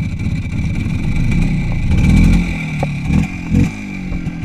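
Motorcycle engine running near idle. The revs swell about two seconds in, then come two short throttle blips near the end.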